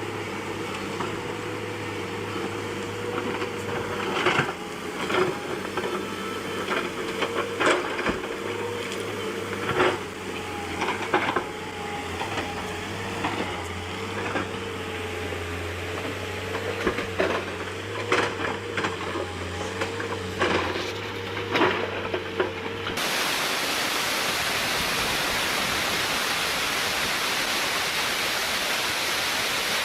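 A machine engine running steadily, with repeated sharp knocks and clanks over it; about two-thirds of the way through it cuts off abruptly to a steady loud rushing noise.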